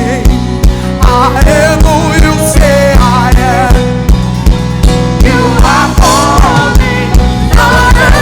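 Live worship band music: a steady kick-drum beat of about two hits a second under band chords, with a voice singing a wavering melody over it.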